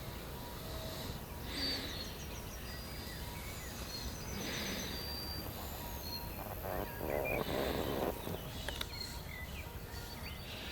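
Field birds singing and calling: scattered short high whistles, chirps and trills over a steady low background rumble, with a rough rasping sound about seven seconds in.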